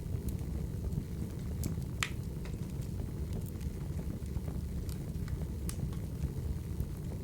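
Crackling wood fire: a steady low rumble with irregular sharp pops and crackles, the loudest about two seconds in.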